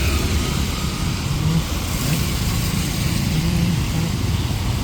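Steady hiss of heavy rain over a low vehicle rumble.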